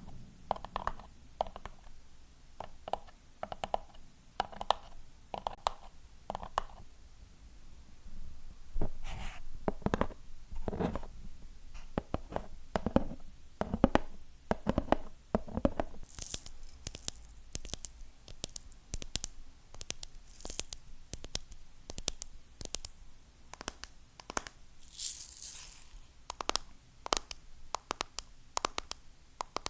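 Fingernails tapping on hard objects in quick, irregular taps. Midway the knocks turn deeper and fuller, and in the second half they become sharp, bright clicks, with a brief scratchy rustle twice.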